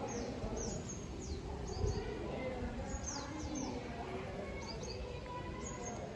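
Small birds chirping: short, high calls that sweep quickly downward, repeating every second or so, over a steady low rumble.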